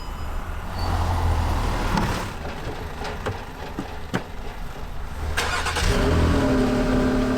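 A car's engine running with a low rumble and a few clicks; about six seconds in a steady drone with a clear pitch sets in.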